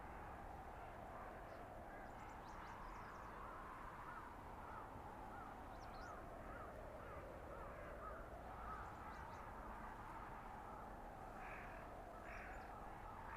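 Blizzard ambience: steady wind through a winter forest, with a howl that slowly rises and falls in pitch. A run of small repeated bird chirps sits over it, and a couple of louder bird calls come near the end.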